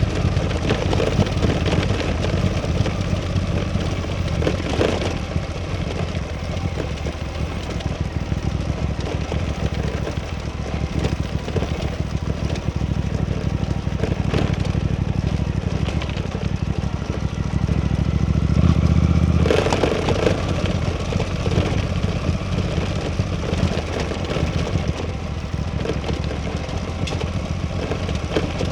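Suzuki V-Strom 800DE parallel-twin motorcycle engine running under way. It builds in loudness for a couple of seconds about two-thirds of the way through, then drops off suddenly.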